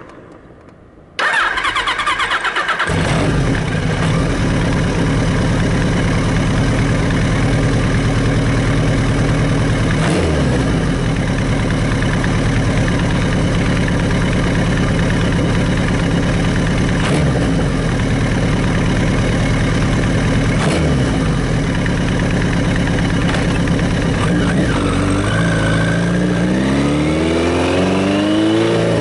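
Kawasaki Z1000Mk2's air-cooled inline-four breathing through Keihin FCR carburettors. It comes in loudly about a second in and runs steadily, its revs dipping and recovering briefly three times. Near the end it revs up in repeated rising pulls, as when pulling away, on a carburettor setting newly made slightly richer.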